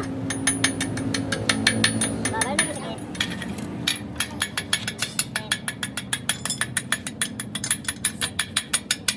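Rapid, evenly spaced metallic clicking from a mechanism, quickening about four seconds in, over a low steady hum.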